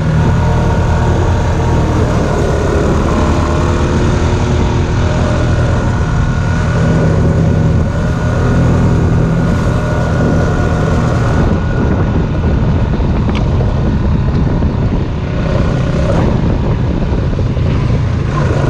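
Engine of a small Honda off-road machine running at a steady pace while riding the trail.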